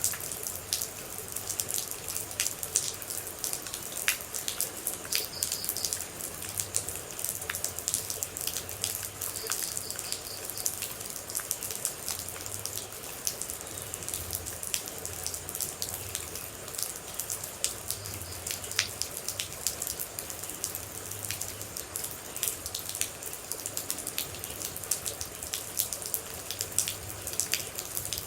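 Steady rain with many close, irregular droplet hits pattering over a constant hiss.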